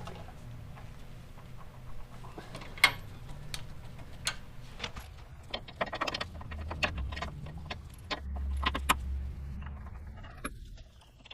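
Metal hand wrenches clinking and rattling against sway bar end link hardware as the links are fitted and the nuts run on, a scatter of sharp clinks with a busier run about halfway through.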